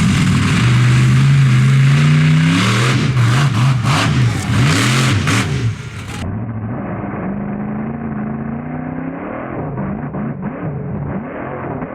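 A large vehicle engine revving, its pitch rising and falling again and again. About six seconds in the sound cuts to a duller, muffled recording with softer revs.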